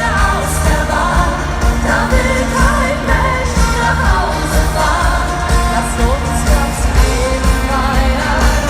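Live pop music over a stadium sound system: a woman's sung melody over a heavy, steady bass beat.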